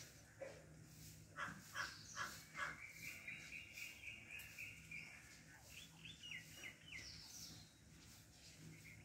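Wild birds calling: four quick descending notes about a second and a half in, then a long trill, with high chirps scattered through.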